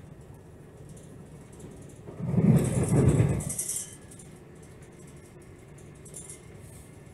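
Steady low rumble inside a moving train, with a louder rush of noise about two seconds in that lasts under two seconds.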